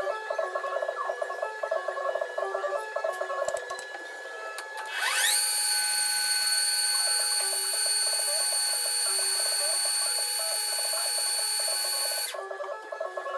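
Electric motor of a homemade belt grinder spinning up with a rising whine about five seconds in. It then runs at speed with a steady high-pitched whine and stops suddenly near the end. Background music plays before and after.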